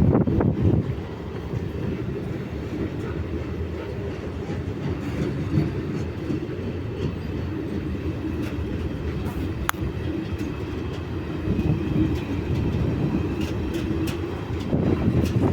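Loaded ore freight train rolling past and away on the rails, a steady low rumble with wheel clatter, a single sharp click about ten seconds in, and a louder rush near the end.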